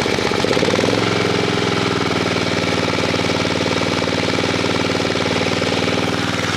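Honda E1500 generator's small petrol engine running on choke just after a cold pull-start. Its speed drops and settles about a second in, then it runs steadily.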